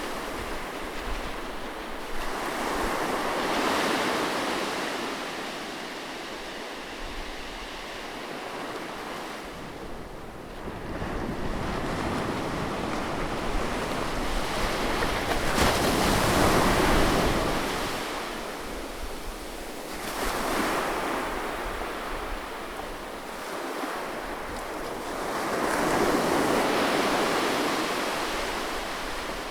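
Ocean surf: waves washing in and drawing back as a steady rushing noise. It swells in slow surges about every ten seconds, three big ones and a smaller one between.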